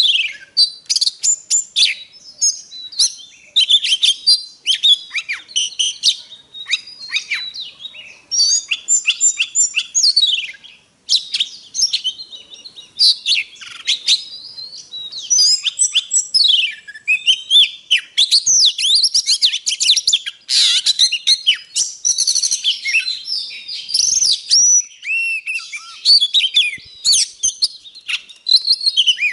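Oriental magpie-robin singing a long, varied song of clear whistles, sliding notes and rapid chirping phrases, with only brief pauses between phrases.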